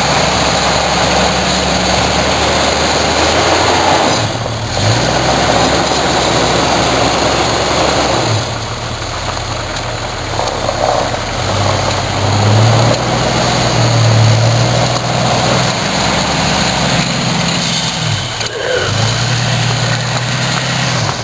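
Jeep Grand Cherokee's engine revving up and down several times as it drives and spins through deep snow.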